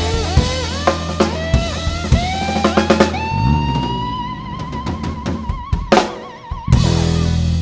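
Blues band playing a song's ending: slide guitar notes glide in pitch over drum fills, with a quick run of drum hits about three seconds in. A long slide note climbs and wavers with vibrato, then the band hits and holds a final chord near the end.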